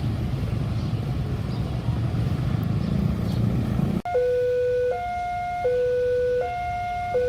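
A steady low rumble, then an abrupt cut about four seconds in to an electronic level-crossing warning alarm sounding two alternating tones, low and high, switching back and forth about every three-quarters of a second.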